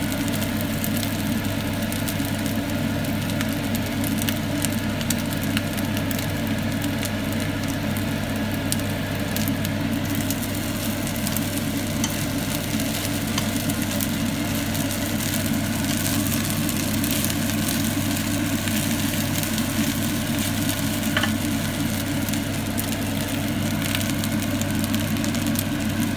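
Fried rice sizzling in a nonstick frying pan as it is stirred and turned with chopsticks and a spatula, with many fine crackles over a steady low hum.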